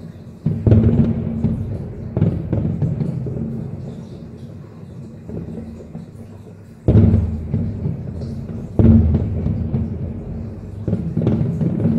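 Fireworks bursting: deep booms with crackling between them, the heaviest bursts about half a second in, near seven seconds and near nine seconds.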